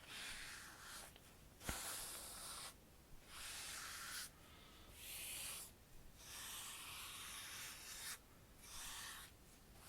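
Facial cleansing wipe rubbed over skin in slow swipes: about seven soft rubbing strokes, each about a second long, with short pauses between.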